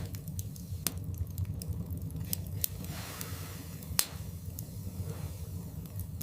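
Wood fire crackling in a fireplace: scattered sharp pops and snaps over a low steady rumble, the loudest pop about four seconds in.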